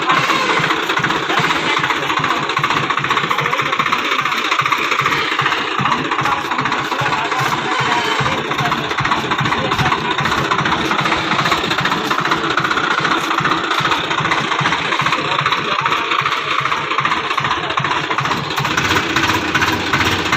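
Swaraj 735 XT tractor's diesel engine running steadily with a fast, even firing beat.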